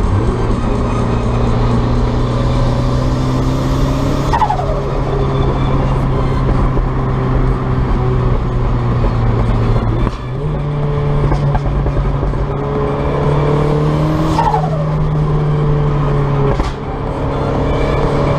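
Turbocharged 1.6 four-cylinder engine of a 1990 Mazda MX-5, fitted with a Garrett T25 turbo and a straight-through exhaust, running while the car is driven. The engine note holds steady and steps up in pitch about halfway through. Two short falling whistles come at about a quarter of the way in and again about three quarters of the way in. The sound dips briefly twice, once around the pitch step and once near the end.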